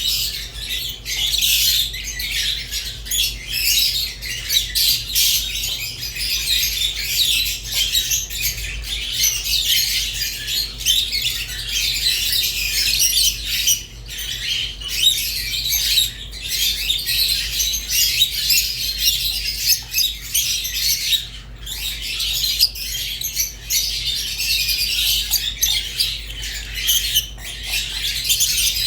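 Rosy-faced and Fischer's lovebirds chirping and squawking together in a dense, unbroken high chatter, over a faint steady low hum.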